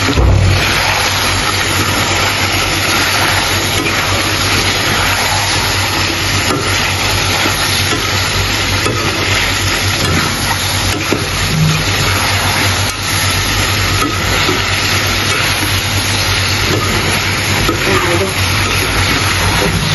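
Chicken pieces in masala frying in oil in a metal kadai: a steady sizzle with a few light clicks as they are stirred. A steady low hum runs underneath.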